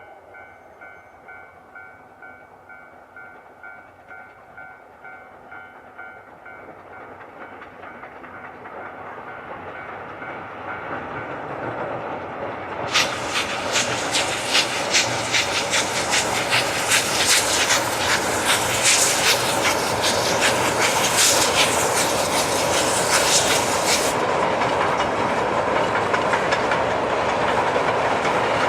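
A C11 steam-hauled passenger train with a DE15 diesel approaches and passes, growing steadily louder. From about halfway through, the wheels clatter loudly and rapidly over the track for about ten seconds, then the running rumble carries on.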